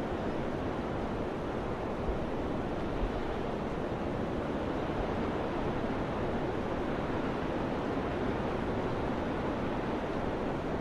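Summer wind blowing, a steady even rushing noise, with two brief low thumps about two and three seconds in.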